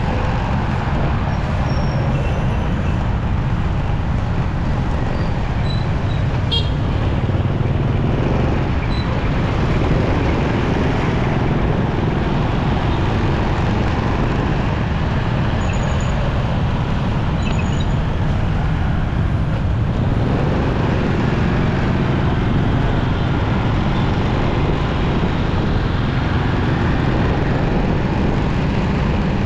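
Motorcycle riding in city traffic: steady engine and road noise, with a few short horn toots from surrounding vehicles.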